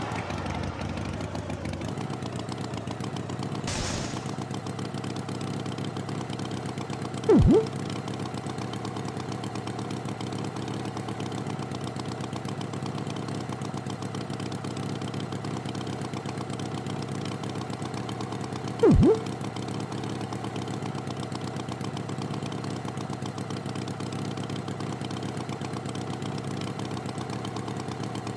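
Tractor engine idling steadily, with two short loud sounds, one about seven seconds in and another about nineteen seconds in.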